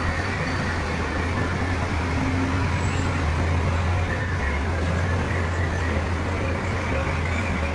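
Heavy diesel earthmoving machinery running steadily, with a deep, even engine hum.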